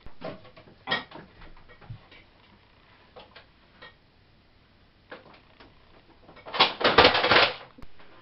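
Scattered clicks and knocks as a microwave oven's plug and cord are handled and pushed into a wall socket, with a louder burst of rustling noise lasting about a second near the end.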